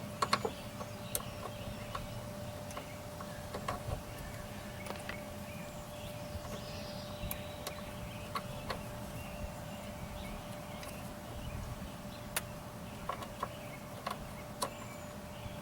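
Scattered light clicks and taps from a door latch and its release cable being worked by hand, as the cable's ball end is fitted into the latch's holder, over a steady faint hum.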